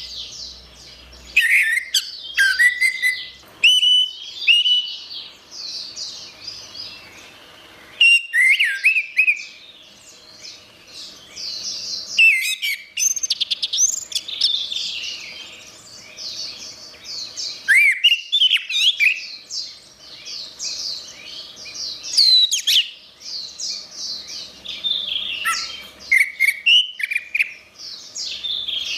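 Orange-headed thrush singing a rapid, varied song of whistled notes, slurs and chattering trills, with a pause of a few seconds about five seconds in.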